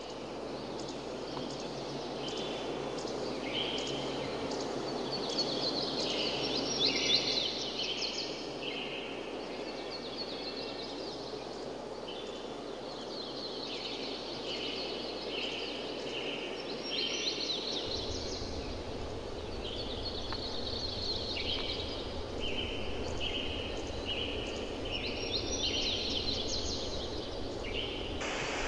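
Outdoor ambience: birds singing in repeated short phrases over a steady haze of background noise.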